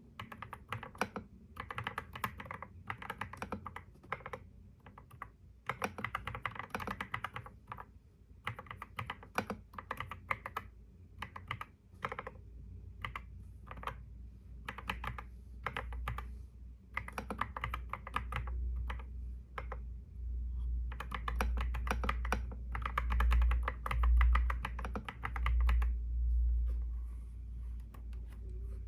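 Typing on a computer keyboard: runs of quick keystrokes broken by short pauses. Under the typing, a low rumble builds from about halfway through and is loudest in the last third.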